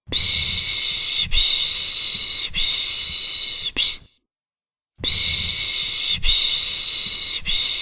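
A person making the rhythmic 'pış pış' shushing sound used to soothe a baby. Each hissed 'shh' lasts about a second, in runs of three plus a short one. Each run ends in a pause of about a second, about four seconds in, before the next run begins.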